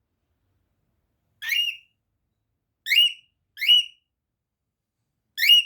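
A bird calling four times, each call a short upward-sweeping chirp, with pauses of a second or more between them: a hungry bird begging for food.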